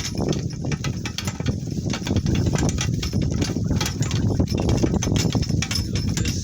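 Donkey-drawn cart rolling over rough farm ground: a steady rumble from the wheels, with many rattles and knocks from the cart and the donkey's hoofbeats.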